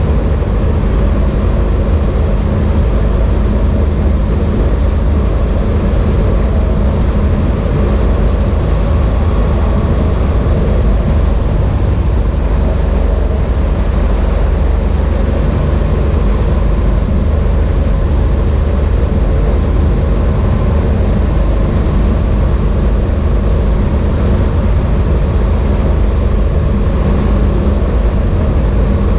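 Evektor EuroStar EV-97 light aircraft's Rotax 912 four-cylinder engine and propeller running at a steady, unchanging pitch, with an even hiss of airflow over it.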